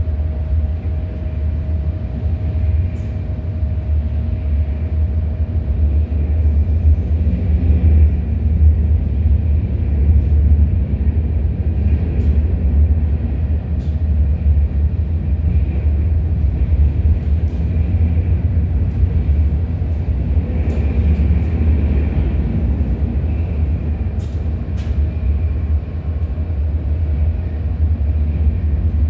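CN freight train rolling past: a steady, loud low rumble with scattered sharp clicks from the wheels on the rails.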